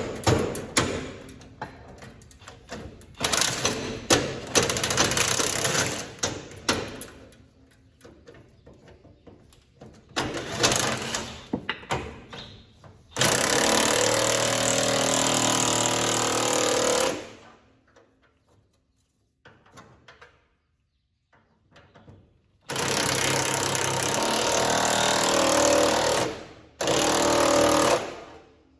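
A run of sharp hammer blows on metal, then a power tool rattling in three bursts: about four seconds, then three seconds, then one second.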